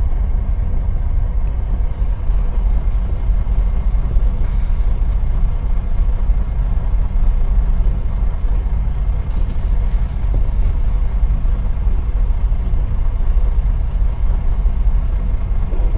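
Diesel engine of a semi-truck idling while stopped in traffic: a steady low rumble.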